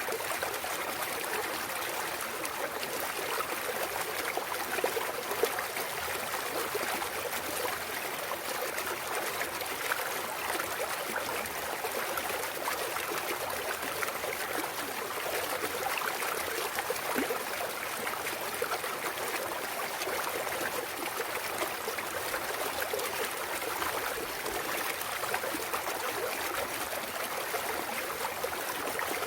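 Clear mountain stream trickling and babbling over rocks, a steady rush of water with small splashes.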